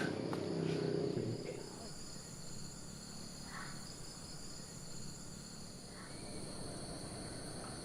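Steady chorus of insects: a continuous high chirring that holds evenly throughout.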